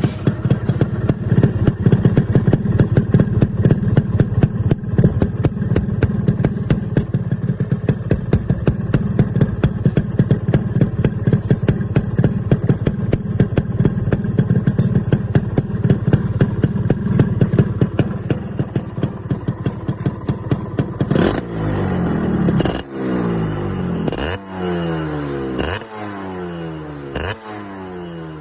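Motorcycle engine through an aftermarket sport exhaust tuned for the crackling 'rích ré' sound: held at high revs with rapid sharp crackles for about twenty seconds. It then drops into repeated throttle blips about every second and a half, each starting with a sharp crack and falling back in pitch.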